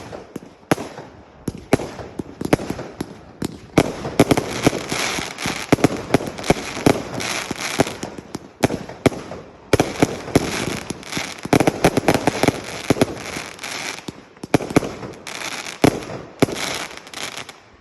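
Fireworks going off in rapid succession: many sharp bangs over dense crackling, thickest in the middle and thinning near the end.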